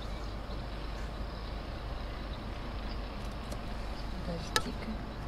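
Steady vehicle engine running, heard from inside a car's cabin, with one sharp click about four and a half seconds in.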